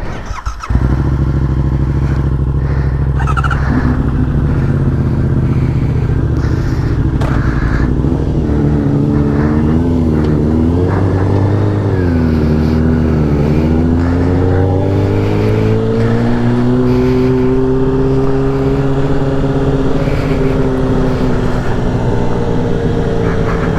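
A motorcycle engine running close to the microphone. It comes in suddenly about a second in, its pitch rises and falls repeatedly in the middle of the stretch, then climbs slowly and holds.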